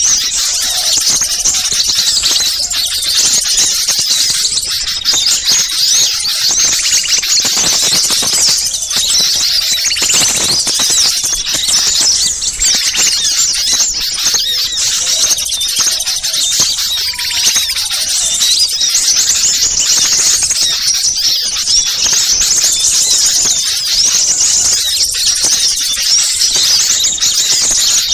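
A dense, noisy chorus of many small birds chirping and twittering together, high-pitched and unbroken: a mixed small-bird lure recording.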